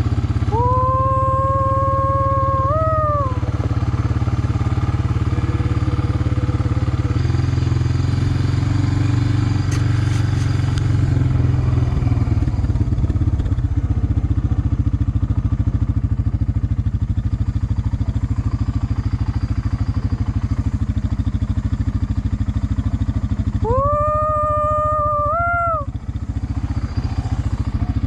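Four-wheeler (ATV) engine running steadily as it rolls along, its note shifting once about seven seconds in. Over it, twice, a long drawn-out call rises at the start, holds, and lifts again before breaking off: once right at the start and once near the end.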